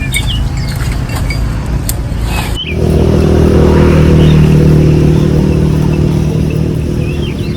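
A motor or engine running steadily. About two and a half seconds in an abrupt change brings a louder, steadier, deeper hum, with a few short high chirps over it.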